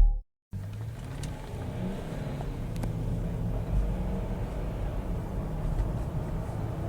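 Car engine running with a steady low hum, without a clear rise in revs.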